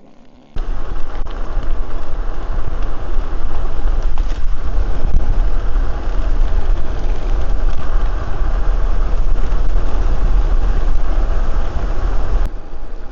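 Wind buffeting the microphone of a camera on a moving bicycle: a loud, even rumble that comes in suddenly about half a second in and drops away sharply near the end.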